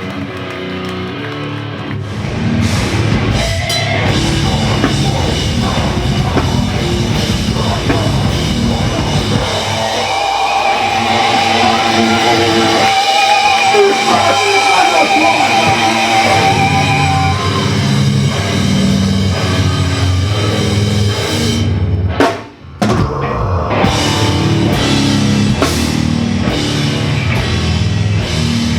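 Loud heavy rock band music with distorted electric guitars and a drum kit. A wavering held tone stands out over the band in the middle, and the sound cuts out for a moment about three-quarters of the way through.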